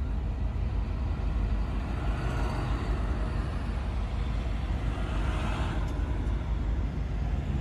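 Vintage tractor engines running as tractors pass by in a parade. The steady low engine rumble swells in noise about two seconds in and again around five seconds.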